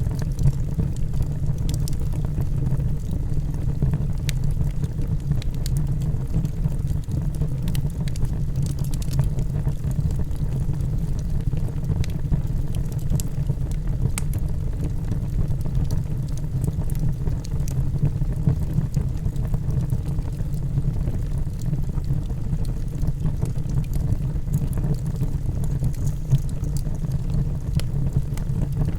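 Logs burning in a fireplace: a steady low rumble of flames with scattered sharp crackles and pops.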